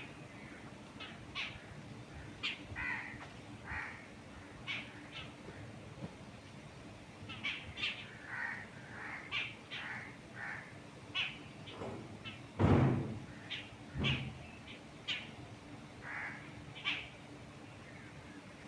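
Wild birds calling in quick succession, many short calls overlapping over a soft background hiss. About two-thirds of the way through comes a single louder, deeper thud, with a smaller one about a second later.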